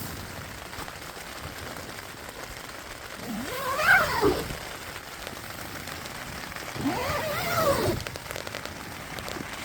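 Steady rain falling in a forest. Twice, about three seconds apart, a drawn-out call rises and then falls in pitch, each lasting about a second.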